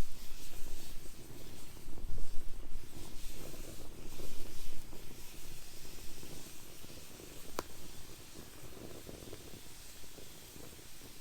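Wood fire burning in a fire pit, hissing and crackling, with one sharp pop about seven and a half seconds in. It is louder for the first five seconds, then quieter.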